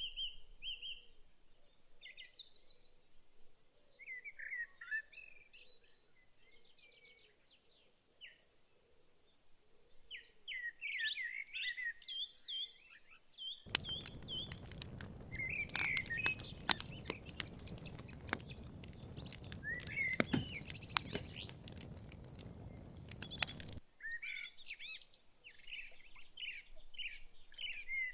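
Several songbirds chirping, trilling and calling in woodland. For about ten seconds in the middle, a steady rushing noise full of crackling clicks comes in under the birds and cuts off suddenly.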